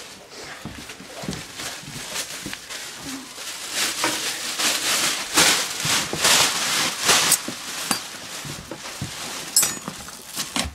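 Repeated scraping and brushing strokes as debris is cleared from the floor behind the appliances, busiest in the middle stretch.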